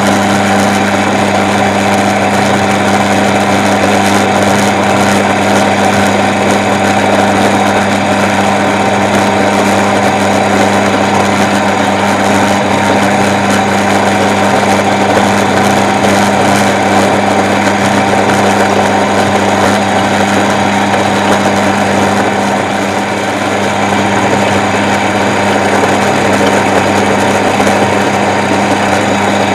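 Small milling machine running steadily while milling a workpiece held in its vise, with a strong even motor hum.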